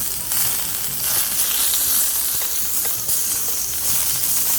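Food sizzling and frying in a hot pan on a camp stove, a steady hiss.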